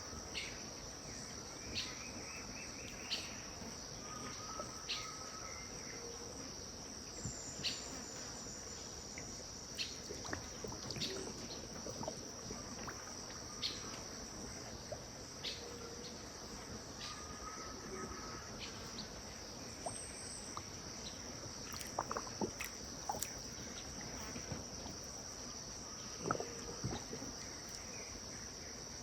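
Insects keep up a steady, high trill on one tone, while birds give scattered short, sharp chirps and a few brief calls. A faint wash of river water runs underneath.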